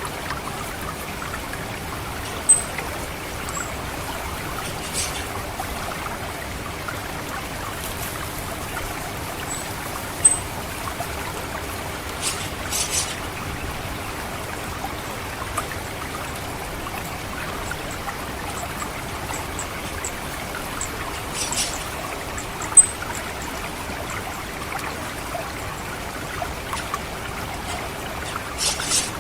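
Steady trickling water in a rice-paddy field, with an orange-headed thrush's short, thin, very high 'cit' calls standing out a handful of times (the 'ngecit' call).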